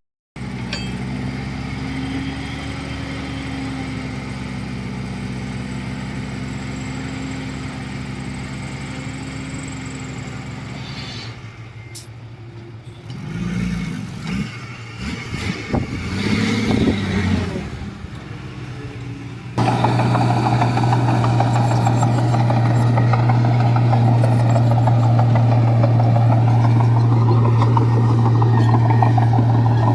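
Diesel engines of heavy earthmoving machinery (bulldozer and dump trucks) running. The sound comes in spliced takes: a brief dropout just after the start, then steady running; a quieter middle stretch where the engine pitch rises and falls; and about two-thirds of the way in, a sudden jump to a louder, steady engine hum.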